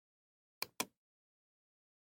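A computer mouse double-click: two sharp clicks about a fifth of a second apart, just over half a second in.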